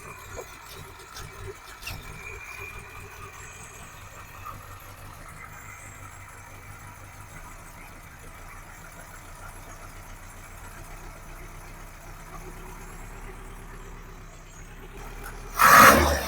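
Carburettor-fed Volkswagen GTI four-cylinder engine idling steadily, a little low, with a few light clicks in the first couple of seconds. Near the end it is suddenly revved hard.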